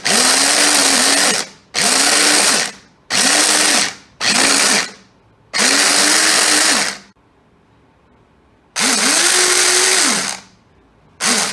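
Philips HR1351/90 250 W hand blender's motor run in seven short bursts as the push switch is pressed and released, each burst spinning up and winding down, blending tomatoes into puree. There is a longer pause between bursts after about seven seconds.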